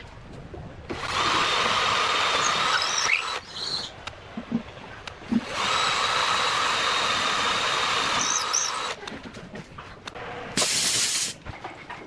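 A small handheld power tool runs in two bursts of about two and a half and three and a half seconds, each with a steady whine. A short hissing burst follows near the end.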